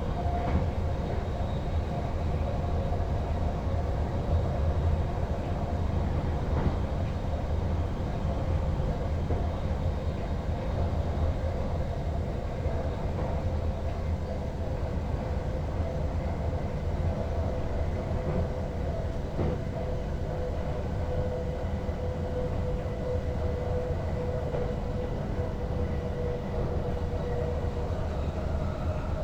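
NS Sprinter Lighttrain (SLT) electric multiple unit running along the track, heard from the driver's cab: a steady rumble with a faint steady whine.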